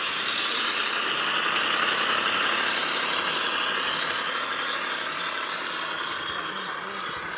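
Radio-controlled scale crawler truck running, a steady mechanical motor-and-gear sound that swells about two seconds in and eases off slightly after.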